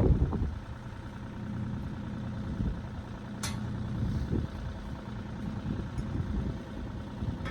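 Engine idling steadily, with one brief sharp squeak about halfway through.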